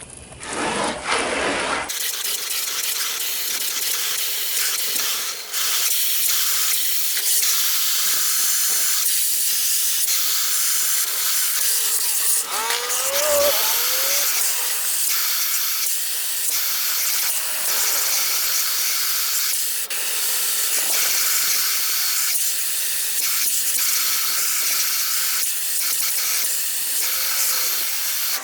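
Steady hiss of cold water spraying onto plastic jugs, with a brief wavering squeak about halfway through.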